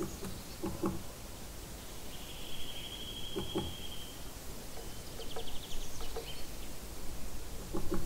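A bird singing: one long, steady high whistle of about two seconds, then a quick high trill, over small gurgles from a trickling forest spring stream.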